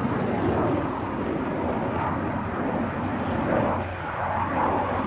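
Jet noise of a twin-engine Sukhoi Su-27M (Su-35) fighter flying an aerobatic display, a steady rushing roar that swells and eases as the aircraft manoeuvres.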